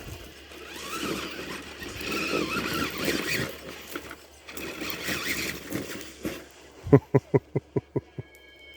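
Tamiya TXT-2 RC monster truck's electric motor and gears whining, rising and falling in pitch as the throttle works. Near the end comes a quick run of about eight sharp knocks that fade away.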